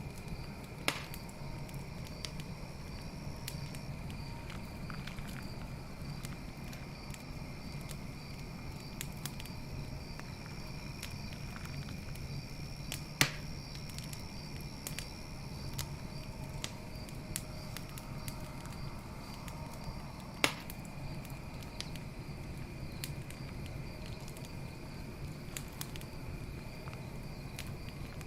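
Wood campfire crackling steadily, with three sharp pops: about a second in, near the middle, and about two-thirds through. Night insects, crickets, keep up a steady high pulsing trill behind it.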